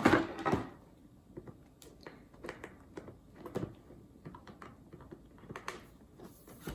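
Cardboard LEGO set box being opened and handled by hand: a short, noisy scrape of cardboard at the start, then faint scattered rustles and light taps.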